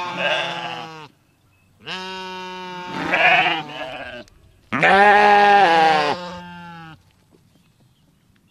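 Bleating livestock, three long wavering bleats in turn, the last one the loudest.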